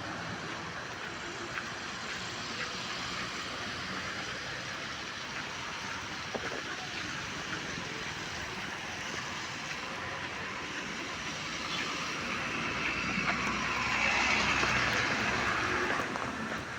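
Steady hiss of rain with traffic on a wet road; from about twelve seconds in a vehicle's tyre swish and engine rumble swell louder, then fade near the end.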